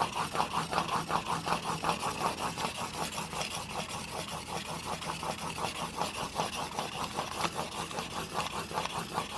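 Steel broadhead blade, held in a roller sharpening guide, being stroked quickly back and forth on a fine-grit diamond plate. It makes an even rasping rub at about four strokes a second that stops at the end. The strokes are raising and breaking off the burr on the single-bevel edge.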